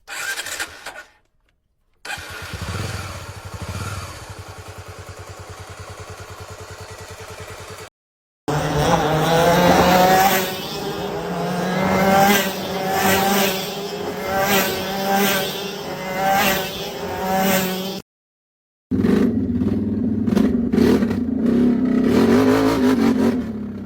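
A string of separate vehicle exhaust clips with brief silent gaps between them: first a steady, quieter engine drone, then an engine revved again and again, its pitch rising and falling in swells about once a second, then another engine running hard.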